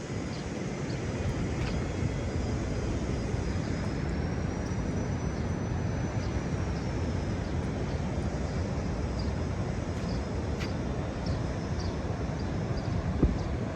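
Steady low roar of ocean surf and wind, with a faint thin high whine that rises slightly in the middle and falls back, and a single thump near the end.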